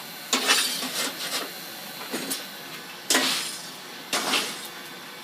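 Hand hammer striking a hot O1 tool-steel striker on the anvil as it is forged out: three main blows at uneven intervals, each with a short metallic ring, and a couple of lighter taps between them.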